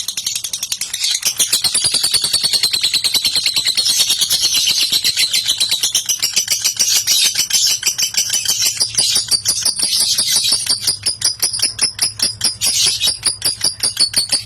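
Lovebird's long contest song (ngekek): a high-pitched, rapid chattering trill of many notes a second, kept up almost without a break apart from a short pause about a second in.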